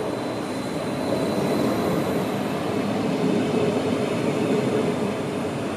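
Electric multiple-unit passenger train rolling slowly along the platform, a steady rumble of wheels and running gear with a faint high whine in the first couple of seconds.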